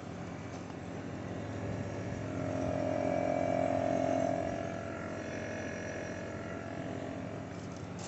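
MrCool Universal heat pump compressor running with a steady hum. About two seconds in, a loud tonal moan joins for about two seconds, then gives way to fainter higher whistling tones: the strange compressor noise the owner is recording.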